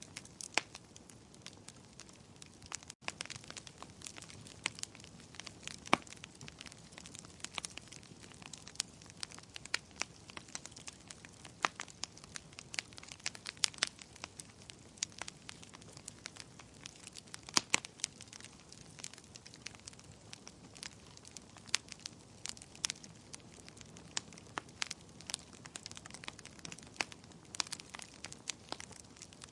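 Wood fire crackling, with frequent irregular sharp pops over a faint steady hiss. There is a brief dropout about three seconds in.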